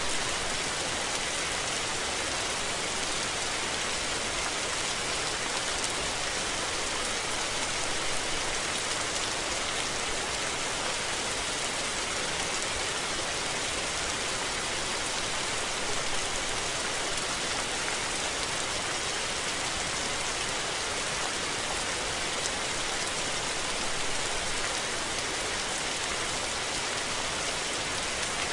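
Steady rain falling, an even hiss of many fine drops that holds level throughout.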